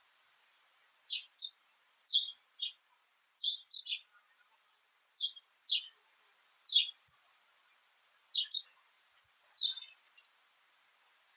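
Sparrow chirping: short, high chirps that each drop quickly in pitch, given singly and in quick pairs at an irregular pace of about one or two a second.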